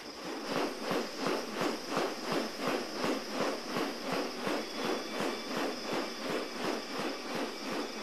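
Rhythmic swishing pulses, about two or three a second and very even, from a male bird-of-paradise in courtship display, over a faint steady high hiss.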